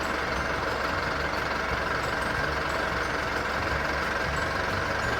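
Truck engine idling steadily after a jump start.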